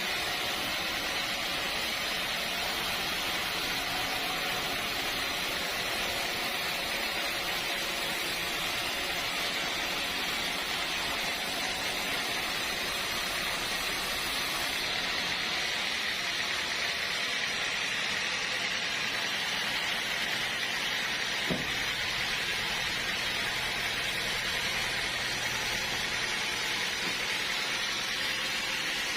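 Sawmill machinery running steadily, a constant hissing noise with a low hum beneath, and one small knock about two-thirds of the way through.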